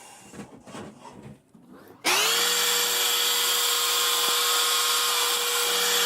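Lapidary trim saw with a diamond blade switched on about two seconds in, its motor running with a steady whine while slicing a piece of Parrot Wing chrysocolla, then switched off and winding down in pitch at the end.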